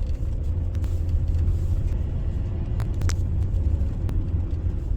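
Hyundai Starex van on the move: a steady low engine and road rumble, with a couple of light clicks about three seconds in.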